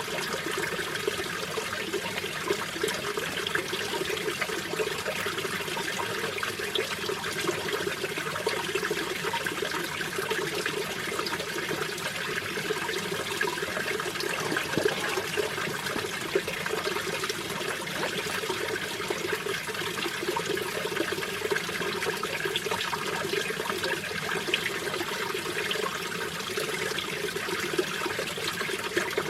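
Mountain valley stream running steadily, a constant rush of water with many small splashes.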